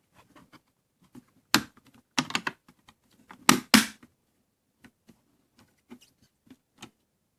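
Irregular clicks and knocks of a battery compartment cover being handled and pressed back into place on a small LED TV-style fireplace. The loudest come in a few clusters in the first four seconds, followed by scattered light ticks.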